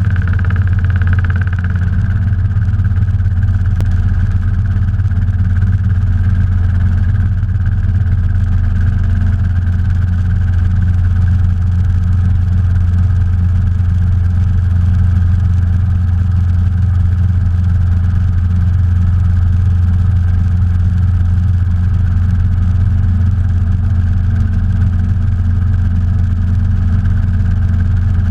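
Robinson R22 helicopter in flight, heard from inside the cabin: a steady, loud drone from its four-cylinder Lycoming piston engine and rotor, with no change in pitch or level.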